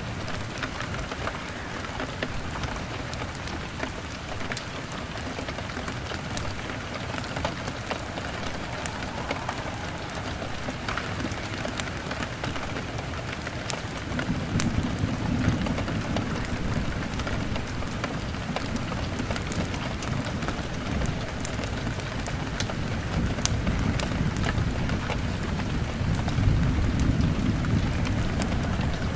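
Steady rain on a window glass, with many sharp crackles from a burning log fire. About halfway through a low rumble comes in and continues.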